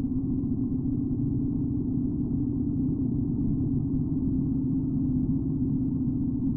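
A 1941 BMW R75's flat-twin engine running steadily as the motorcycle is ridden, heard as an even, muffled low drone.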